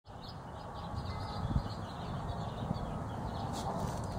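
Small birds chirping over a steady low rumble, with a soft thump about one and a half seconds in.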